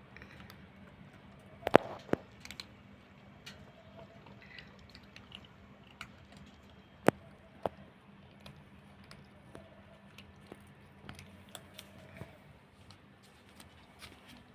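Cats chewing and crunching dry kibble, a run of small irregular crunches and clicks, with a few sharper clicks about two seconds in and about seven seconds in.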